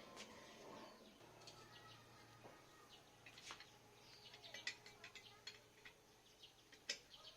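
Near silence with scattered faint, sharp clicks and ticks, thickest in the second half and with one sharper click near the end.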